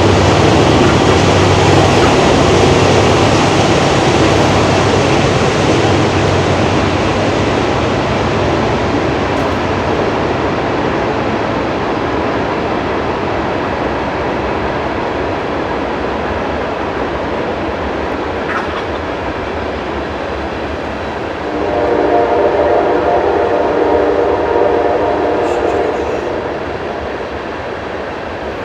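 Train running past on railroad tracks: a loud, steady rumble that slowly fades, with the train's horn sounding for several seconds about three-quarters of the way through.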